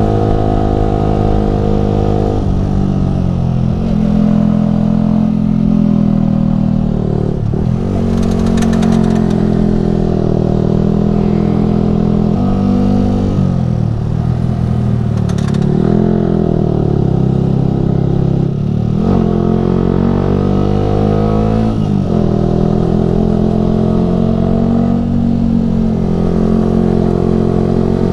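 Yamaha R15 V3's 155 cc single-cylinder engine running through an aftermarket Ronin Musashi exhaust while riding, its pitch rising under throttle and dropping suddenly several times at gear changes and throttle lifts. Twice there is a brief clatter.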